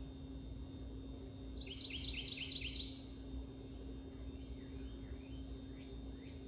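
Birds chirping: a quick run of descending chirps about two seconds in, then scattered single chirps, over a steady low hum.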